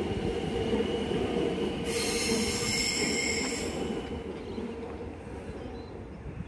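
Metro electric suburban train running away over the rails with a steady rumble. From about two seconds in, a high-pitched wheel squeal rings out for under two seconds. The rumble then fades as the train draws away.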